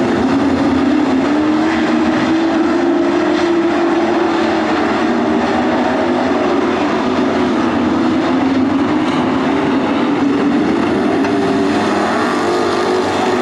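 A pack of dirt-track race trucks running hard around the oval, engine pitch rising and falling in waves as they go through the turns.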